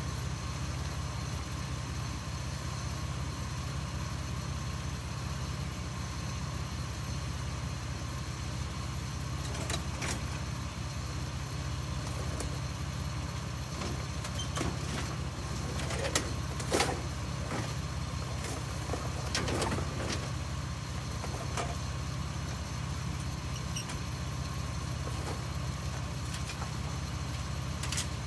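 Vehicle engine running steadily at idle, with a few scattered knocks and clanks, the loudest a sharp clank about two-thirds of the way through.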